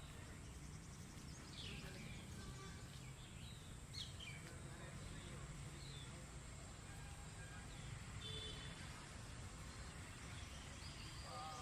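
Birds chirping and calling with short, scattered calls, faint over a steady low background rumble.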